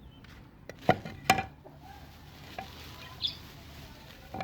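Two sharp knocks about half a second apart, about a second in, with a short bird chirp a couple of seconds later.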